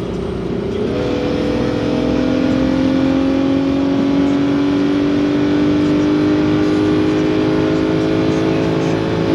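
BMW E90 335i's turbocharged straight-six pulling under acceleration. The revs jump about a second in, then climb steadily for several seconds and drop sharply near the end.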